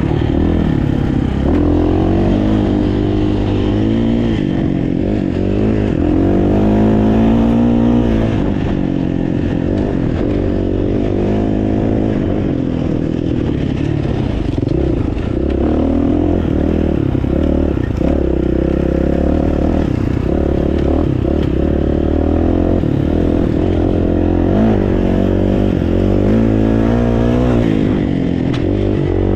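Dirt bike engine revving up and down as the bike is ridden off-road, heard from a helmet-mounted camera, with some rattling and scraping.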